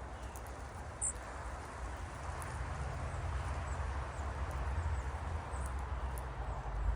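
Small wild birds giving short, high chirps, scattered and faint, with one clearer chirp about a second in, over a steady low rumble and hiss.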